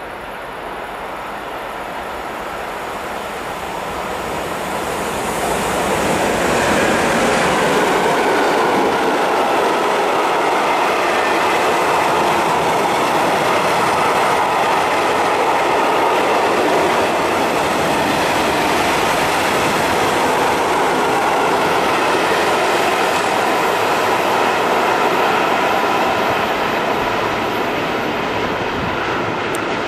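Freight train of tank wagons hauled by a Class 185 electric locomotive passing through at speed. The rolling noise builds over the first several seconds as it approaches, holds loud and steady while the wagons roll past, and eases off a little near the end.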